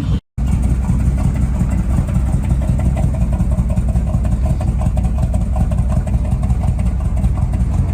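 Muscle car engine idling steadily and loudly, cutting in after a brief moment of silence.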